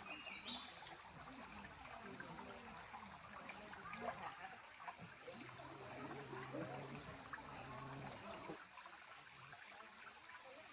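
Waterfall stream running steadily, a faint even rush of water.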